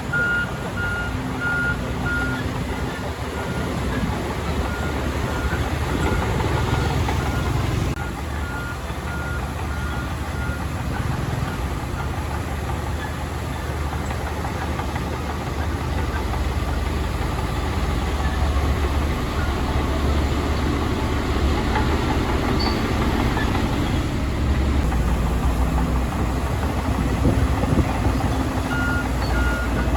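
Heavy diesel earthmoving machinery running with a steady low rumble, its reverse alarm beeping about twice a second for the first ten seconds and starting again near the end.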